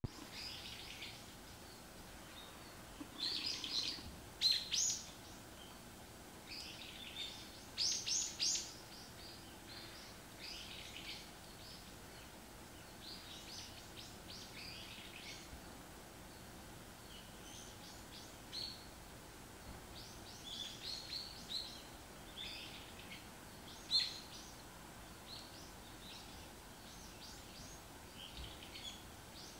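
Varied tit calling: short, high chirps in scattered clusters throughout, a few of them much louder than the rest, over a faint steady background hiss.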